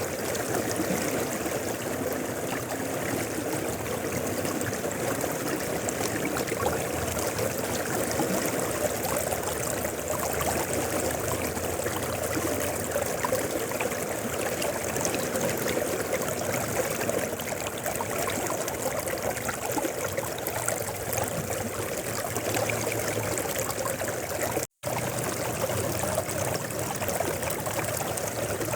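Mountain river flowing: a steady, even rush of water over stones. A few seconds before the end the sound cuts out for a split second and returns.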